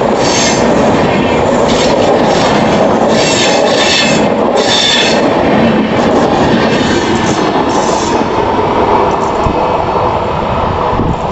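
Passenger train's coaches rolling past on a curve, wheels clattering with repeated bursts of high wheel squeal. The squealing dies away over the last few seconds as the loudness starts to drop.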